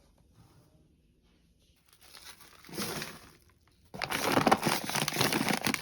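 Plastic packaging crinkling and rustling as it is handled, faint at first, then loud and crackling from about four seconds in.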